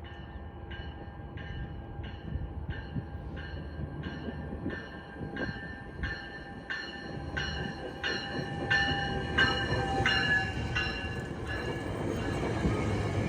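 Commuter train arriving at a platform: its bell rings steadily about one and a half strokes a second, growing louder as the train draws near, over a low rumble that builds toward the end.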